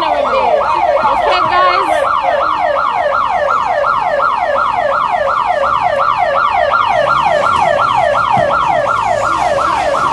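Emergency vehicle siren sounding a fast yelp, its pitch sweeping over and over at about three sweeps a second.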